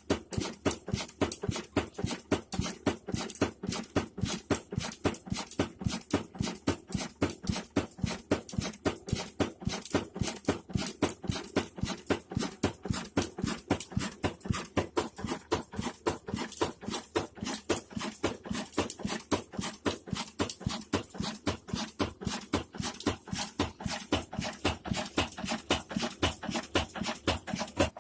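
Desi 'Kala' single-cylinder diesel oil engine running steadily, with an even, rapid beat of firing strokes.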